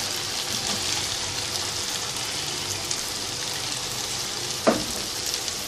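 Onion, tomato and ginger-garlic masala sizzling steadily in hot oil in a wok, with one short knock a little before the end.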